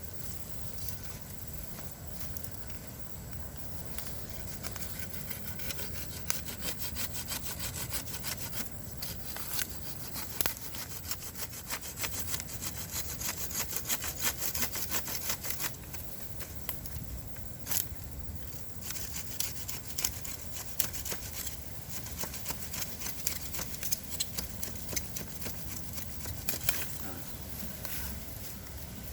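A saw cutting through a bamboo stem in steady back-and-forth strokes that go on without a break, loudest about halfway through.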